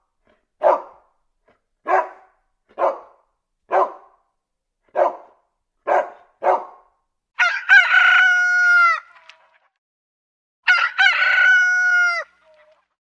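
A dog barks seven times in short single barks about a second apart. Then a rooster crows twice, each crow a long call of about a second and a half that ends in a falling note.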